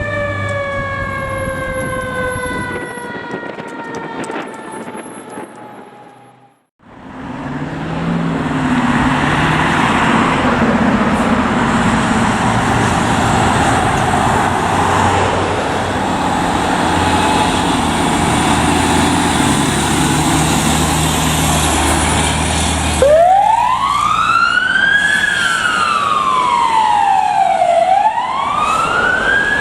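Fire apparatus responding. A siren tone winds slowly down and fades. Then a fire truck goes by loud, with heavy engine and road noise, and an electronic wail siren starts near the end, sweeping up and down every few seconds.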